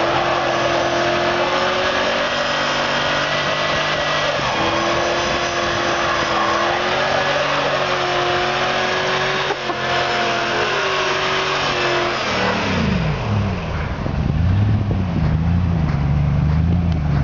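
Chevy 1500 pickup's V8 engine held at high revs against the rev limiter, the pitch nearly steady with a slight waver. About twelve seconds in, the revs fall away to a low, uneven running.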